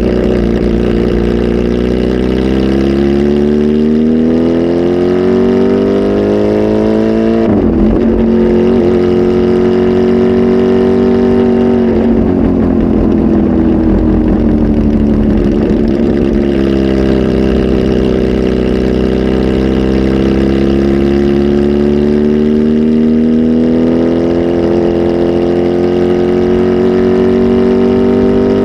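Kawasaki Z H2 SE supercharged inline-four, flash tuned and on a full exhaust, pulling under load with its pitch climbing slowly. The pitch breaks and drops about 7 seconds in and again near the middle, then climbs steadily again.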